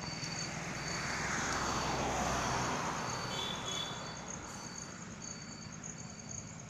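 Insects chirping steadily, one in a fast, continuous high trill and another in short repeated pulses. A passing engine swells and falls in pitch, loudest about two seconds in, then fades under the insects.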